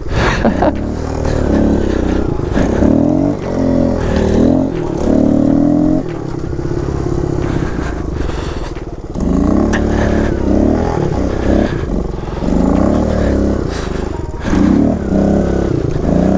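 Kawasaki KLX110 pit bike's small four-stroke single-cylinder engine being ridden, revving up and down over and over, with a lower, steadier stretch about six to nine seconds in. The owner reckons the engine is hurt and due for a rebuild.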